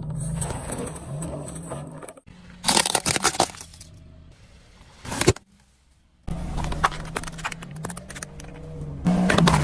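A vehicle's engine running low while objects crackle and crunch under its weight, in bursts of sharp cracks with a few clinking, glassy rattles; the sound cuts off and restarts abruptly several times, as between edited shots.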